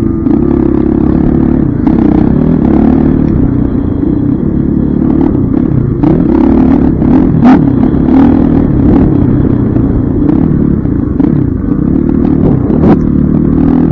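Dirt bike engine running under load as it is ridden, its pitch rising and falling with the throttle, with two sharp knocks, one midway and one near the end.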